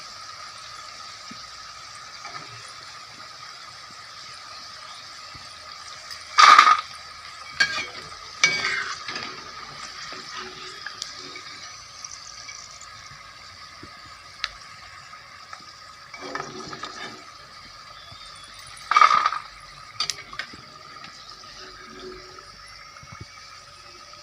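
Chicken pakoras frying in oil in a kadhai with a steady sizzle, while a metal spoon scrapes and clanks against the pan. Two loud clanks come about six seconds in and again near the end of the second third, with lighter knocks between.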